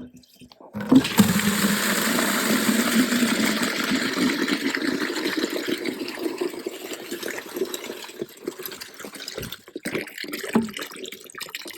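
Water gushing from a rain-collection tank's spigot into a container being filled. It starts about a second in and grows gradually quieter toward the end.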